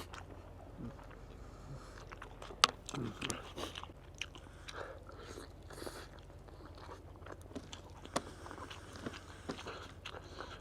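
Close-up eating sounds: chewing and biting with small crunches and wet clicks, the loudest a sharp click about two and a half seconds in, over a low steady hum.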